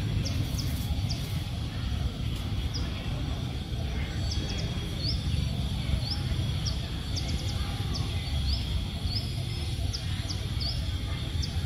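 A small bird repeatedly gives short, high, rising chirps, roughly one every second, over a steady low outdoor rumble.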